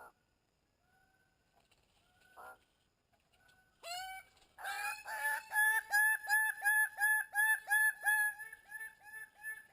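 Bird-of-paradise calling: a short call, then a rising note about four seconds in, followed by a fast run of loud repeated pitched notes, about three a second, which grow softer near the end.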